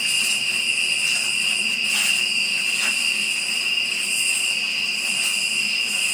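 Steady high-pitched night insect chorus: a constant shrill drone with a pulsing higher hiss above it.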